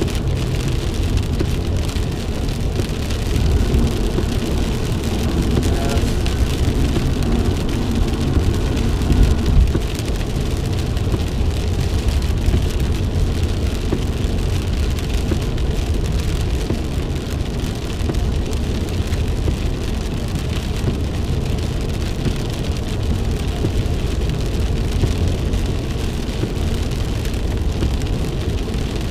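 Steady driving noise from inside a vehicle's cabin: low road and engine rumble with rain hitting the vehicle.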